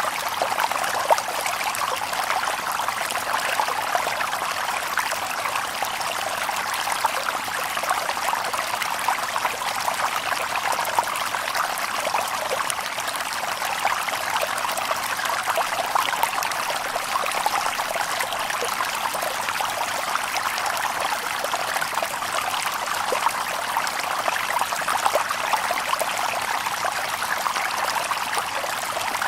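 A shallow stream babbling over stones: a steady rush of water, flecked with small splashes and trickles.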